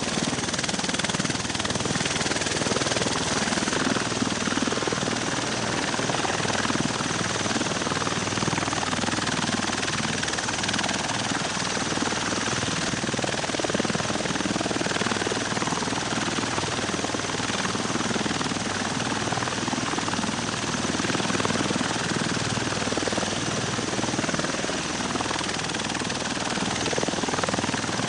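V-22 Osprey tiltrotor's proprotors and turboshaft engines running, a steady, loud rotor and turbine noise.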